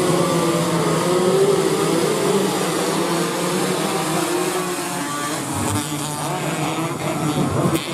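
Several 125cc two-stroke underbone race motorcycles running at high revs, their engine pitches rising and falling against each other as the riders shift and brake.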